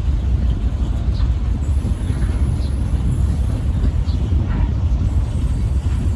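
Diesel locomotive running with a steady low rumble, with faint short high chirps now and then.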